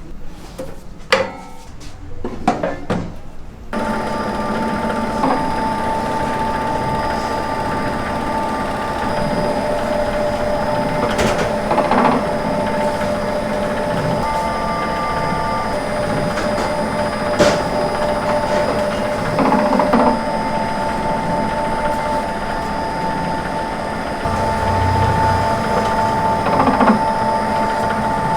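A few knocks and clatters, then a machine starts about four seconds in and runs steadily with a constant hum and whine, with occasional clanks.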